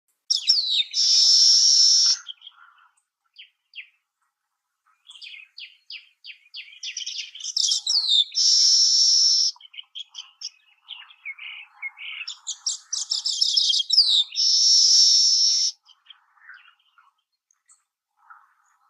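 Baya weaver singing: three song phrases, each a run of quick chattering ticks that build up and end in a high buzz lasting about a second.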